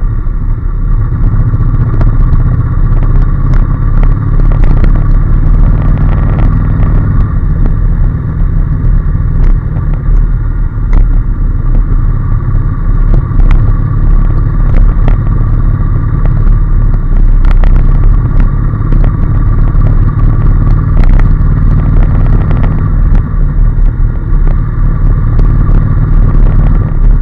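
A Honda NC750S's parallel-twin engine running steadily while the bike is ridden, heard as a loud, steady low rumble. Scattered sharp clicks sound over it.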